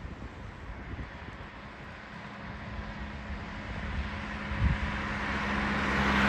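A train approaching, its noise rising steadily toward the end, with a steady low hum setting in about halfway through.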